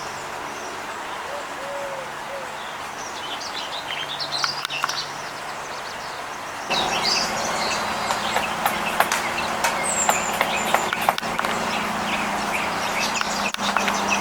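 Small birds chirping and calling over a steady outdoor background hiss, which steps up suddenly in level about seven seconds in.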